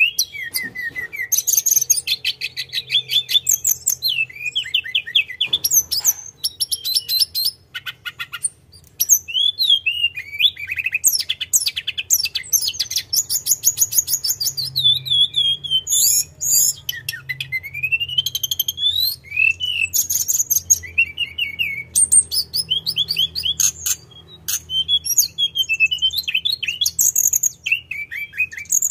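A tledekan gunung songbird singing continuously at full vigour: quick rolling trills and high whistled phrases, one after another with only brief pauses, over a faint low hum.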